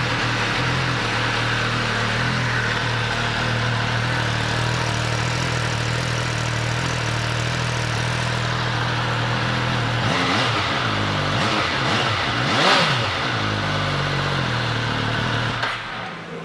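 MV Agusta Rivale 800's three-cylinder engine idling steadily, then revved briefly twice past the middle, the second rev the loudest, before the engine shuts off near the end.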